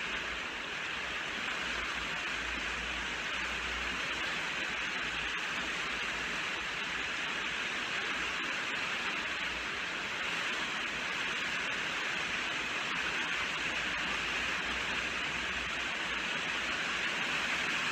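Steady rainfall, an even hiss of rain with a low rumble underneath and no separate drops or thunder.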